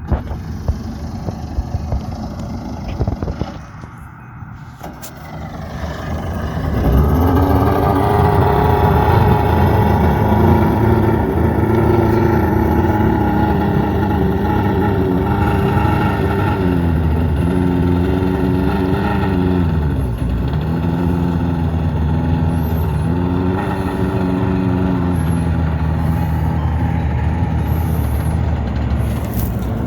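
Small jet boat's engine running. It picks up about six seconds in and then holds loud and steady, its pitch dipping and rising a few times as the throttle changes.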